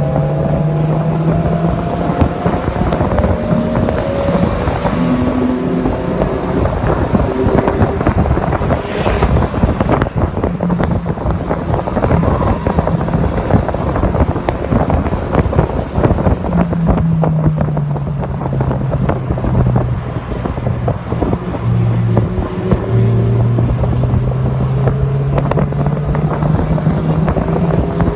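Mazda MX-5 Miata (NC) four-cylinder engine pulling at speed on track, its note rising and falling with throttle and gear changes, under heavy wind buffeting on the microphone.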